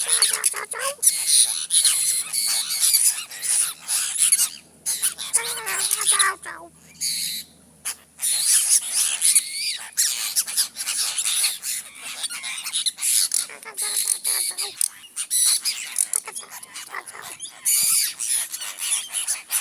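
A flock of apostle birds chattering, many high calls overlapping almost without pause, with a couple of brief lulls.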